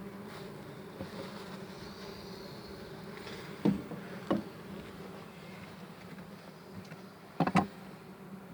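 Honeybees buzzing steadily in a hive, with two sharp knocks a little before halfway and two more in quick succession near the end.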